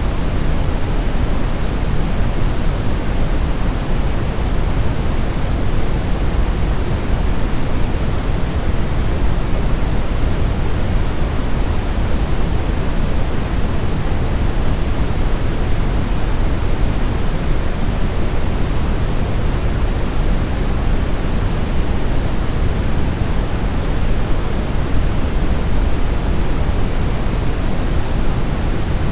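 Steady brown noise: an even, deep hiss with most of its weight in the low end and little at the top, with no change or events.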